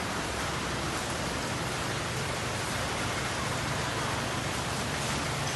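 Rain falling steadily onto a flooded street and standing water, an even hiss that does not change.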